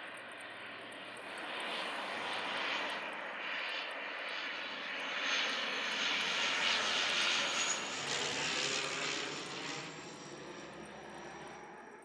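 Canadair CL-415 water bomber's twin turboprop engines as it flies past, growing louder to a peak around the middle and then fading away near the end.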